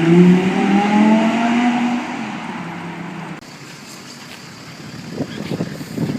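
Ferrari 430 Scuderia's V8 accelerating hard, its pitch rising through the first two seconds, then fading as the car pulls away. Near the end, low gusts of wind rumble on the microphone.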